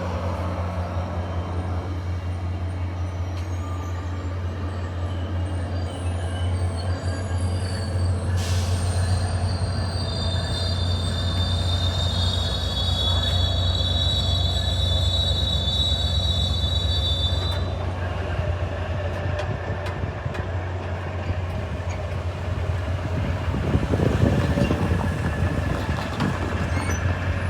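SunRail commuter train arriving, with a steady low rumble of the train throughout. A high, multi-toned wheel squeal starts about a third of the way in and stops a little past the middle.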